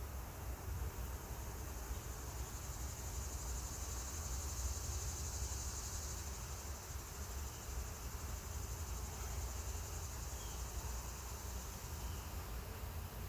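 Insects trilling in a steady high-pitched drone, swelling a little in the middle, over a low rumble.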